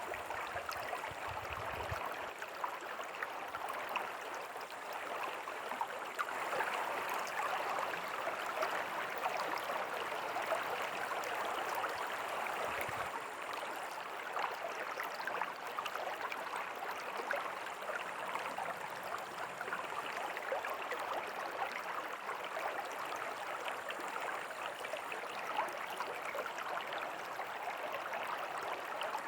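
A river flowing: a steady rush and babble of water over rocks, with fine splashing detail and a brief low rumble near the start and again about halfway through.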